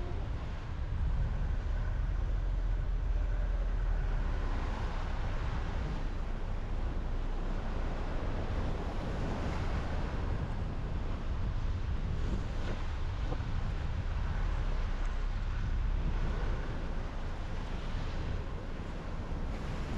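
Car driving at steady speed: a constant low rumble of road and tyre noise with wind rushing past.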